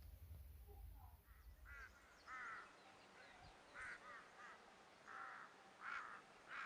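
A bird giving a series of short, repeated calls, about ten of them, starting about two seconds in; a faint low rumble comes before them.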